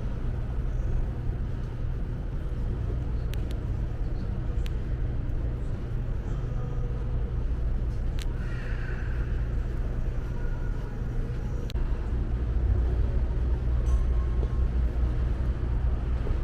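Steady low rumble with a few faint sharp clicks, like distant traffic or a large building's background hum.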